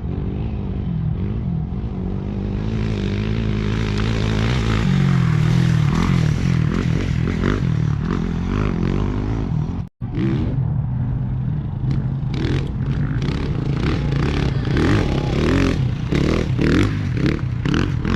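Off-road race motorcycle engines passing on a dirt course. One bike grows louder to a peak about five to six seconds in, then fades. After a sudden break about ten seconds in, another bike runs with a rapid scatter of sharp clattering hits.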